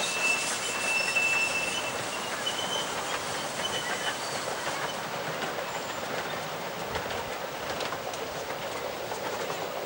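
A 15-inch gauge miniature train's carriages rolling along curving track, with a steady rumble and clicking over the rail joints. A thin, high wheel squeal on the curve sounds through the first few seconds, then fades.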